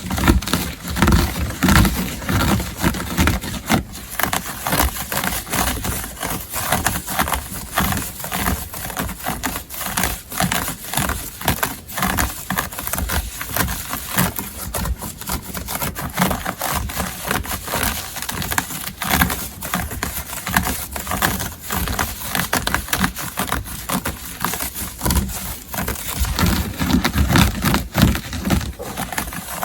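Continuous, rapid scratching strokes on textile, close to the microphone, with no pauses.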